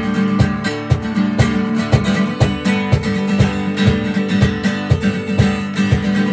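Instrumental break of a song: strummed acoustic guitar chords with a steady beat of sharp percussive hits, about two a second.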